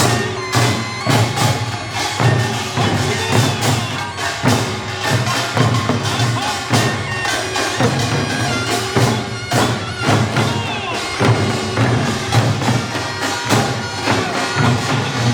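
Korean pungmul folk music: drums and gongs beat a driving rhythm under the nasal, reedy melody of a taepyeongso (Korean shawm).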